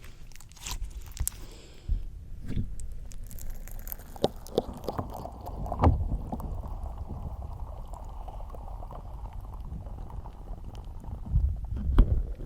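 Slime squished and pressed against a microphone: muffled low rumbling with sticky pops and clicks, and a few louder thumps about two, six and twelve seconds in.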